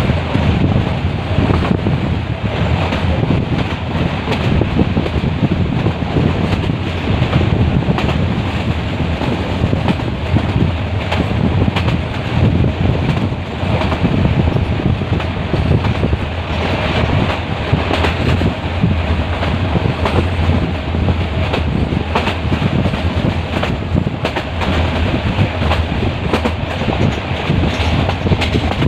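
Metre-gauge passenger train running, its wheels clattering over the rail joints in a steady run of clicks, with wind buffeting the microphone.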